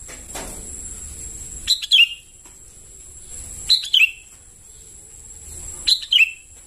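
Young sooty-headed bulbuls calling: a short, sharp double chirp, repeated three times about two seconds apart.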